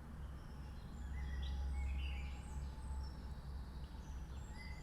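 Birds chirping in the background with short, scattered calls, over a low steady rumble.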